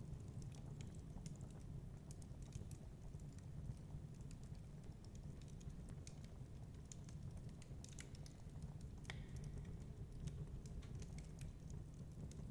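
Wood fire crackling in a fireplace: irregular sharp pops and snaps, one stronger snap about nine seconds in, over a steady low rumble of snowstorm wind.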